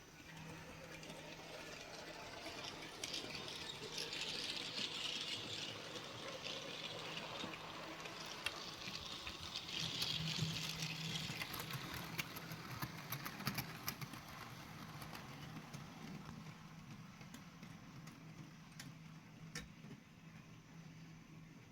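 OO gauge model steam locomotive, a kit-built NER G1 2-4-0, running along the track with its train of coaches. It gives a steady motor hum with wheel and track noise and scattered sharp clicks. The sound swells as the train draws near, is loudest about ten seconds in, then fades away.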